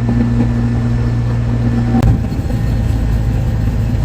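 Steady engine drone and road noise heard from inside a shuttle bus cruising on an expressway. A low hum runs throughout, and about two seconds in a click marks a change, after which a higher held tone in the hum drops away.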